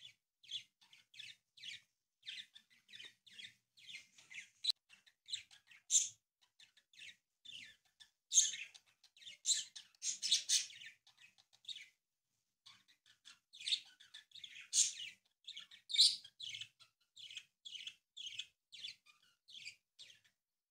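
A small bird chirping over and over in short, high chirps, about two to three a second, with a short pause partway through.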